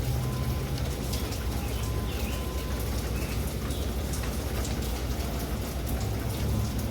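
Rain falling steadily, a dense patter of individual drops over an even hiss, with a steady low rumble underneath.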